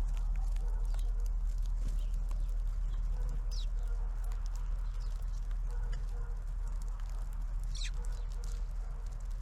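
Small birds giving two short, high calls, about three and a half and eight seconds in, with scattered light ticks, over a steady low rumble.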